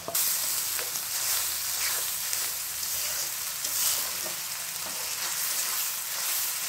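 Spice paste and fried onions sizzling in hot oil in a karahi while a spatula stirs and scrapes the pan. The sizzle flares up suddenly as the paste is spread into the oil, then holds steady: the masala being sautéed.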